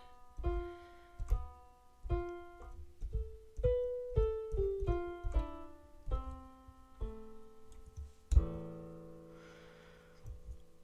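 Instrumental piano interlude in a slow song: a melody of separate notes and chords over soft low beats. A loud chord lands about eight seconds in and rings out, fading.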